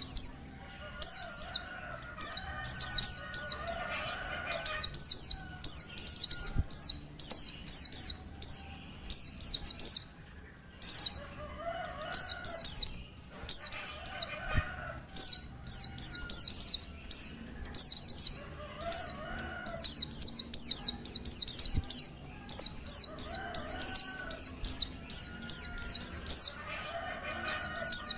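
Female white-eyes (pleci) calling: rapid runs of high, thin, down-slurred notes in clusters every second or so, with short gaps. This is a female call used to stimulate male white-eyes to sing. Fainter, lower calls recur every few seconds beneath them.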